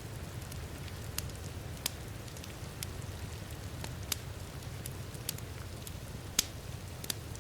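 Wood fire crackling with sharp, irregular pops about once a second, over a steady rush of heavy rain.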